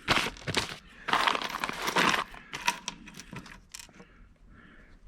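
Small steel roll pins rattling and clicking as a hand rummages through them: two spells of scratchy rattling, then a string of separate light clicks.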